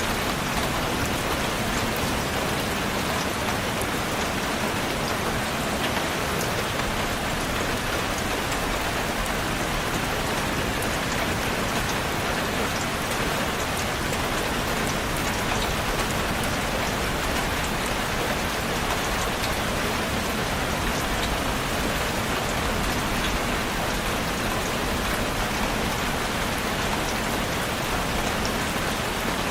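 Steady rainfall, drops pattering on a surface in an even, unbroken hiss.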